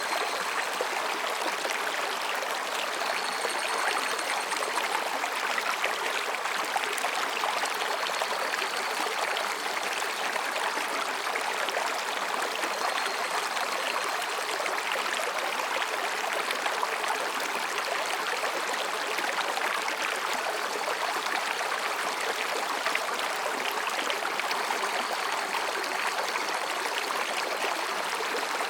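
Mountain stream flowing between rocks, a steady babbling rush of water. Faint high-pitched calls sound in the first few seconds.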